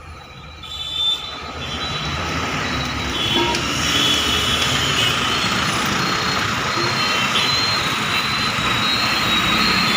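Ford EcoSport's engine running at raised revs during a carbon clean: the noise climbs over the first four seconds, then holds steady.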